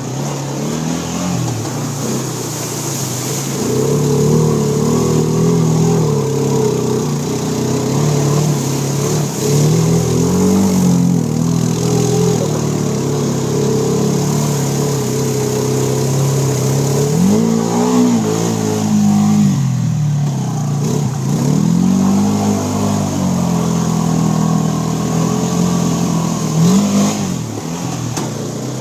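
Four-wheeler (ATV) engine running hard and revving, its pitch climbing and dropping several times as it pushes through deep mud and floodwater.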